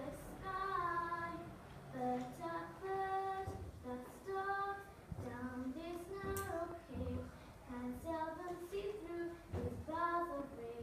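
Children singing a slow melody together, with held notes and short breaks between phrases.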